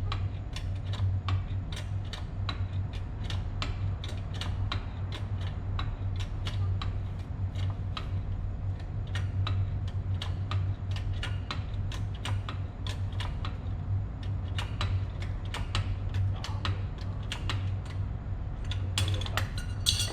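A steady low hum with quick, irregular clicking, several clicks a second, over it.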